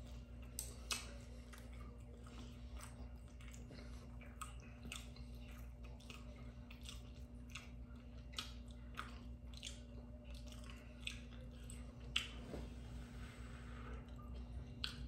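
Close-miked chewing: irregular wet mouth clicks and smacks of someone eating, a few a second, with a sharper click near the end. A faint steady hum runs underneath.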